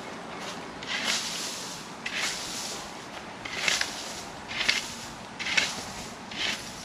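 Dry forest-floor leaves and litter rustling in short, repeated swishes about once a second, as in clearing ground at a camp site.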